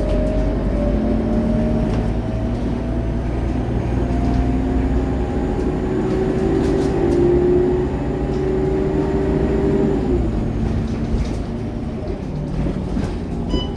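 Scania K230UB city bus's diesel engine and drivetrain under way: a steady drone with a whine that climbs slowly in pitch for about ten seconds as the bus accelerates, then drops abruptly at an upshift.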